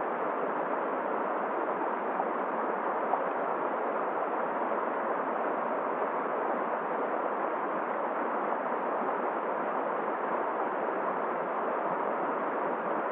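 Steady rushing of a flowing river mixed with wind, an even noise that holds without breaks.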